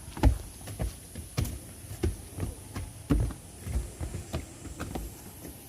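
Footsteps walking at a steady pace, about one and a half steps a second, each step a low thud, over a faint steady high hiss.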